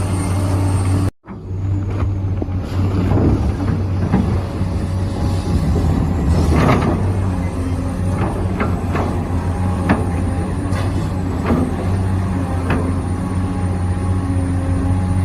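Remote-control excavator and truck models at work: a steady low engine-like hum, with scattered clicks and scrapes on top. The sound drops out for a moment about a second in.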